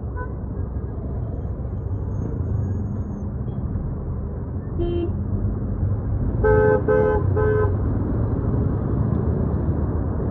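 Steady rumble of road traffic, with one short car-horn toot about five seconds in, then three quick honks about half a second apart.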